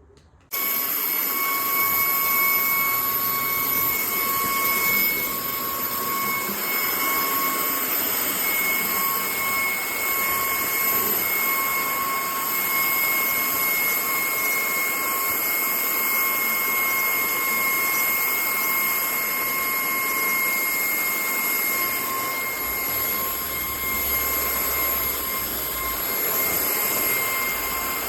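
VIAFLY cordless stick vacuum running steadily, a rushing airflow noise with a high-pitched motor whine. It starts abruptly about half a second in.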